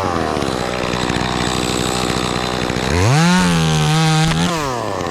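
Chainsaw running at full throttle while cutting through a dead limb, its engine held down under load, then speeding up to a higher pitch about three seconds in and dropping back near the end.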